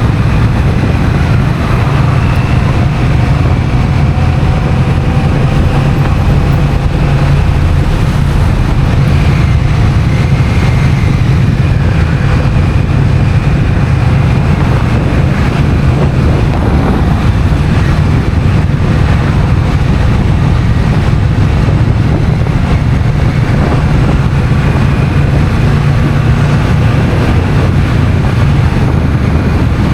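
Honda CMX1100 Rebel's parallel-twin engine running steadily at speed, mixed with wind noise on the microphone.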